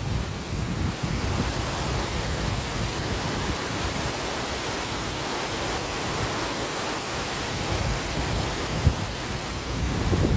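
A river rushing steadily, with wind gusting and buffeting the microphone. There is a single brief low thump about nine seconds in.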